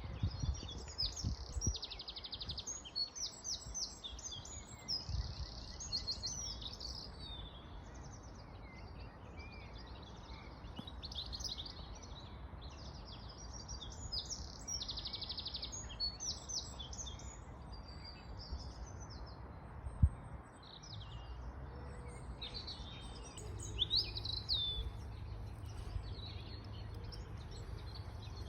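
Songbirds singing: a busy mix of chirps, whistles and rapid trills from several birds, over a low background rumble. A single sharp knock cuts through about two-thirds of the way in.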